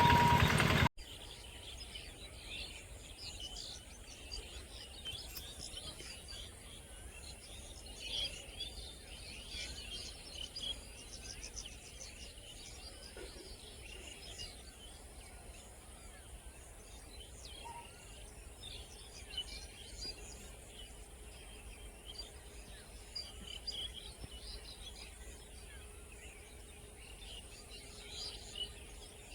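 Outdoor ambience of many small birds chirping, with a steady high-pitched insect drone underneath. A loud sound fills the first second and cuts off suddenly.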